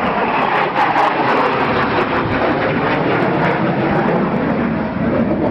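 Aircraft flying past, a loud engine noise whose pitch falls steadily as it goes by.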